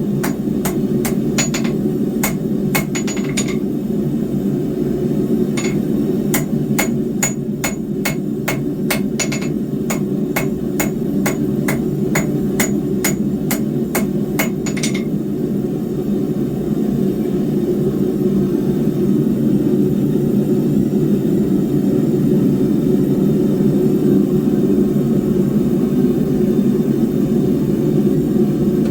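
Hand hammer striking hot square steel bar on an anvil in quick, even blows, about three a second, some blows ringing, with a short pause early on and the hammering stopping about halfway through. A steady low rushing noise runs underneath throughout.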